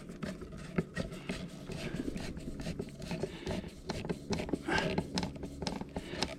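Screwdriver driving the mounting screws of an LED motion light fixture: many small clicks and metal scrapes, irregular and faint.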